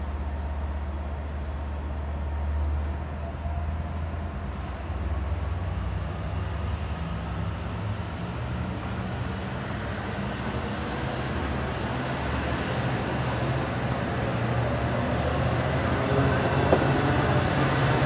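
A train running past, a steady low rumble that grows louder toward the end, with a faint high whine slowly rising in pitch.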